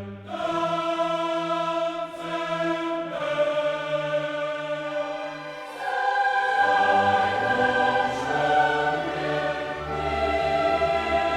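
Classical choral music with orchestra: a choir holding long chords that change every few seconds, swelling louder with a fuller bass about six seconds in.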